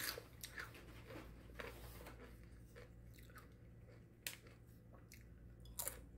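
A person chewing crunchy tortilla chips, with irregular crunches. A sharper crunch comes a little past four seconds in, and a few more near the end.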